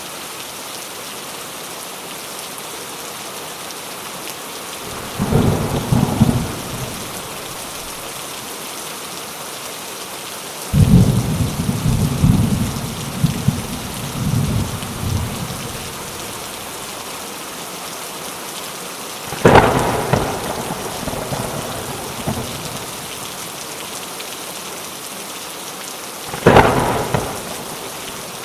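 Steady rain falling, with thunder rumbling four times over it: a short peal about five seconds in, a longer roll for about four seconds near the middle, another peal around twenty seconds, and a sharp short one near the end.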